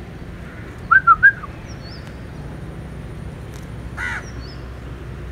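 Birds calling: three quick, loud whistled notes about a second in, then a single harsh crow caw about four seconds in, with faint high chirps throughout.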